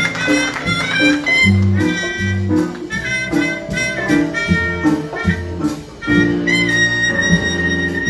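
A school jazz ensemble playing live: wind instruments play a melody over bass notes and a steady cymbal beat. Near the end, one high note is held.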